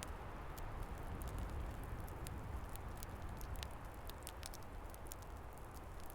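Log fire crackling, with irregular sharp pops and snaps, over a steady low rush of wind.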